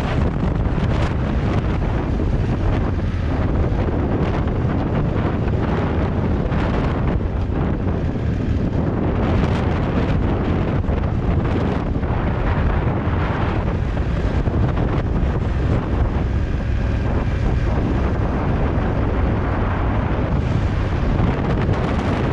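Wind buffeting the microphone on a moving motorcycle, a steady loud rush over the low running of the bike's engine and road noise.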